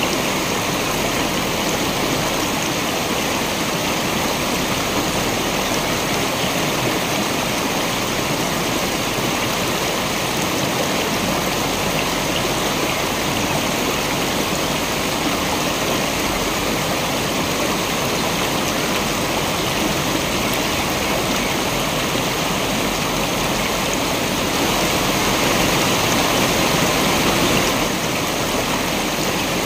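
Waterfall: a continuous rush of falling water, swelling slightly for a few seconds near the end.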